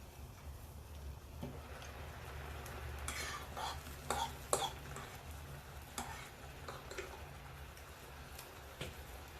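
Eating sounds: a scatter of short clicks and scrapes, thickest around the middle, over a low steady hum.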